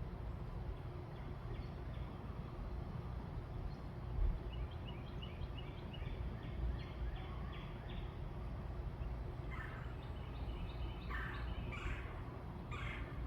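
Birds calling: a quick series of short high notes about halfway through, then several louder calls, each a fraction of a second long, near the end, over a steady low background rumble.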